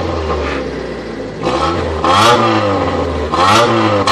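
Honda car engine revved in repeated blips for an exhaust sound test, its pitch climbing and falling back about three times.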